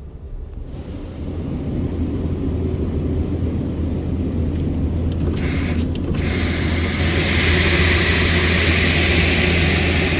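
Touch-free automatic car wash: a steady low rumble, then about five seconds in high-pressure water jets start hissing against the vehicle, stop briefly, and come back louder.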